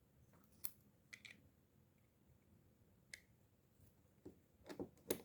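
Faint, scattered clicks and light taps, about seven in all, with a few louder ones near the end: small fishing-reel parts and tools being handled during servicing.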